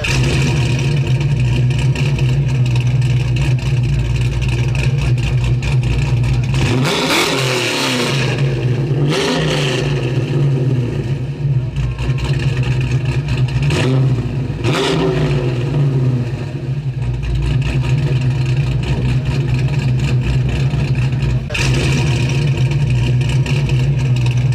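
1962 Ford Galaxie race car's 406 V8 idling, revved in short blips about seven, nine and fifteen seconds in.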